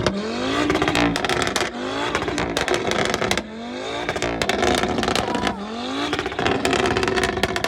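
Performance car engine revving hard, its pitch climbing and dropping back several times, with a rapid crackle of exhaust pops over it.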